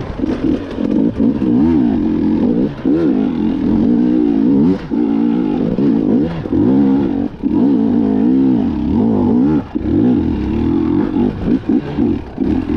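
KTM 250 EXC two-stroke enduro bike engine being ridden hard. The revs rise and fall again and again as the throttle is opened and shut, with a few brief drops in loudness where the throttle is chopped.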